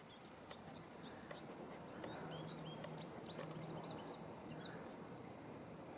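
Small songbirds chirping faintly in a quick run of short high calls that dies away a little before the end, over a faint low hum in the middle.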